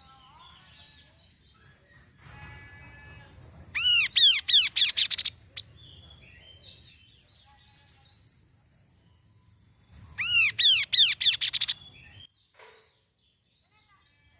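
Kaso-kaso bird singing: two loud runs of rapid, arching whistled notes, about 4 s and 10 s in, with softer chirping notes between them. A thin, steady high-pitched whine runs underneath.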